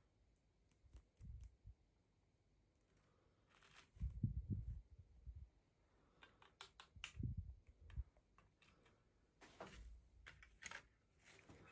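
Faint handling noises: scattered small clicks and taps with a few soft low thumps, as a plastic toy doll and its packaging are handled.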